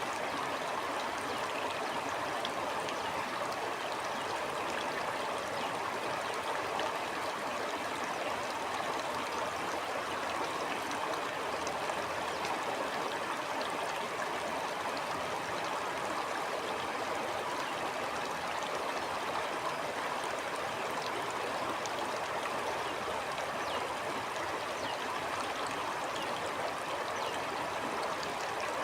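Stream flowing steadily: a continuous, even rush of running water with small splashing ticks through it.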